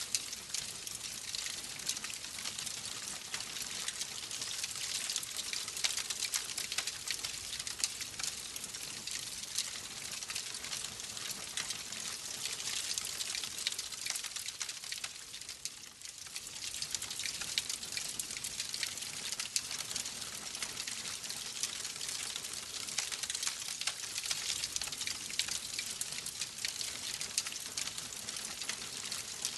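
Wood fire crackling and hissing in a fireplace, a steady stream of small pops and snaps; it eases off briefly about halfway through.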